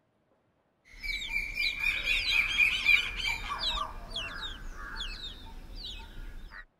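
Several birds chirping in quick, short falling notes over a low rumble. It starts about a second in and cuts off suddenly just before the end.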